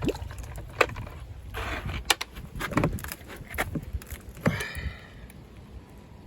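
Ice being worked off a frozen car door: scattered sharp cracks and knocks, a brief scraping hiss early on, and a short squeak that slides down in pitch about four and a half seconds in, with wind rumbling on the microphone.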